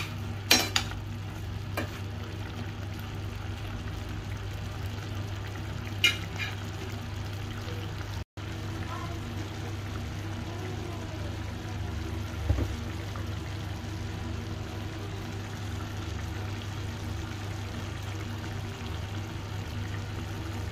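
Chicken pieces sizzling steadily as they fry in their juices in a stainless steel pan, with a metal spatula clinking against the pan a few times in the first seconds and once more about six seconds in. A steady low hum runs underneath.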